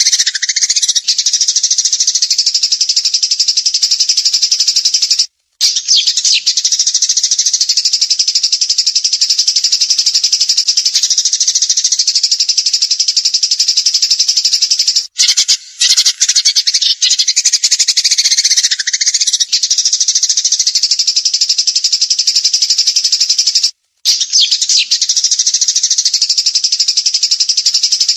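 Small songbird singing a rapid, dense, high-pitched trill of the 'tembakan' (machine-gun burst) kind, with only brief breaks about 5, 15 and 24 seconds in.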